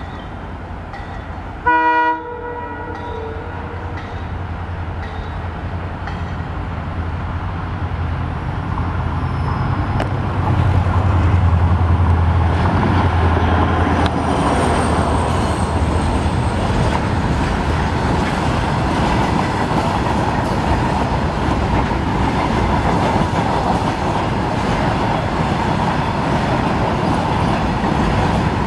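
Freight train hauled by a WDG4 diesel locomotive, giving one short horn blast about two seconds in. Its engine drone grows louder as it approaches and passes about halfway through. A long string of wagons then rolls by with steady clattering wheel and rail noise.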